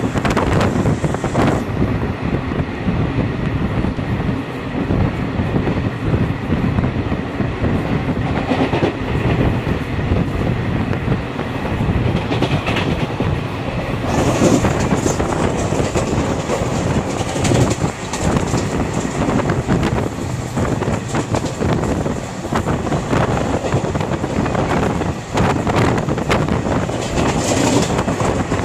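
Moving train heard through an open coach window: steady running noise with the wheels clattering over the rails, mixed with wind. At the start a goods train of open wagons passes on the next track.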